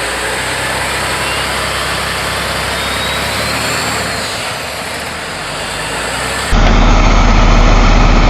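Diesel engine of an Oshkosh HEMTT 8x8 heavy tactical truck running, with a faint rising whine. About six and a half seconds in the sound jumps abruptly to a much louder, deep engine drone.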